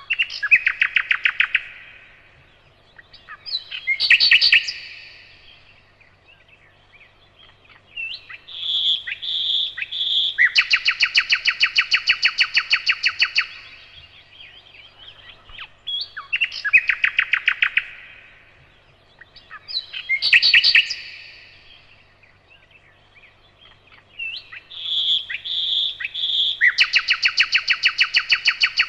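Nightingale singing in separate phrases of rapid repeated notes, the longest a fast trill of about ten notes a second lasting several seconds, with short pauses between phrases. The same run of phrases comes round again after about sixteen seconds.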